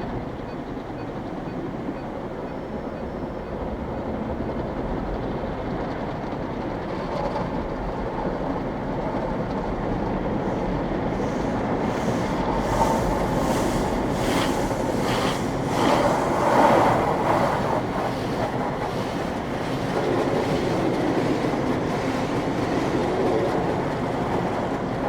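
Automatic car wash running: a steady rumble of spraying water and machinery. It grows louder about halfway through, with some slapping and hissing at its loudest.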